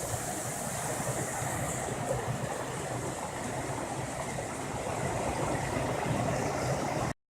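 Running water of a stream, a steady even rushing.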